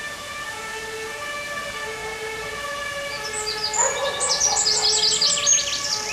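A songbird singing close by, a rapid run of sharp high chirps in the second half that is the loudest sound, over steady held tones in the background that step from note to note.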